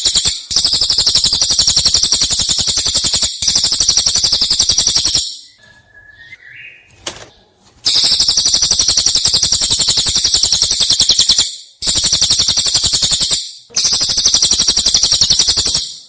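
Prenjak (prinia) singing long, very fast rattling trills in the 'nembak' style. The trills come in several stretches of a few seconds each, split by short breaks, with a longer pause near the middle.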